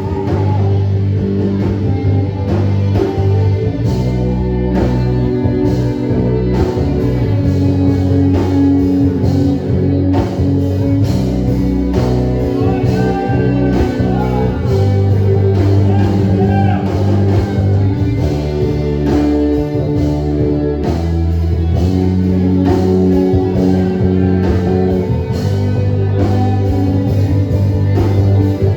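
Praise band music with electric guitar, bass and drums keeping a steady beat, with singing at times.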